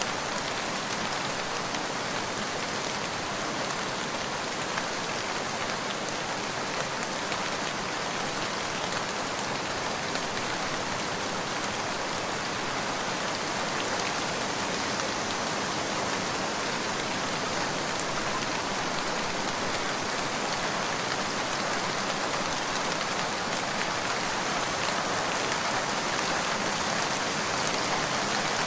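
Steady rain falling on a surface, an even patter of many drops.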